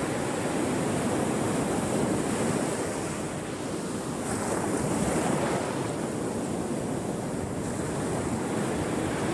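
Ocean waves washing onto a shore, a steady rush of surf rising and falling gently, with some wind noise on the microphone.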